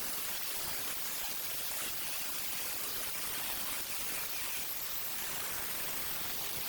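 Steady, even hiss at a constant level, with no distinct strokes or tones.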